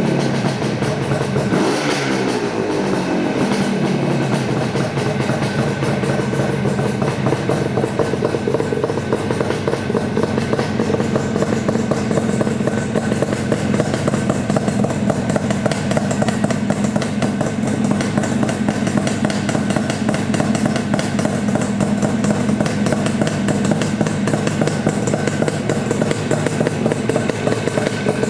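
1976 Yamaha RD400's air-cooled two-stroke parallel twin running through DG expansion chambers: the revs fall away over the first few seconds, then it idles steadily.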